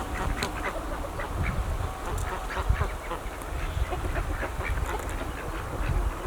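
Domestic ducks quacking: a steady string of short calls.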